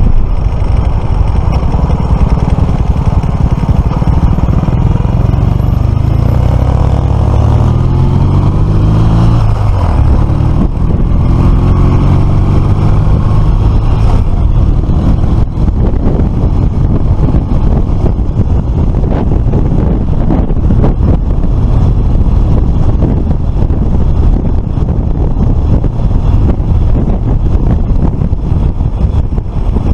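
Suzuki FL125 Address 125 cc single-cylinder scooter engine running on the move under heavy wind rush on the microphone, its engine note rising and falling between about five and thirteen seconds in.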